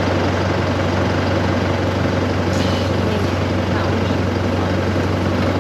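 Isuzu D-Max's diesel engine and drivetrain running steadily as the 4x4 creeps along an overgrown bush track, heard from inside the cab with a window open: a constant low drone under a rough, noisy rustle.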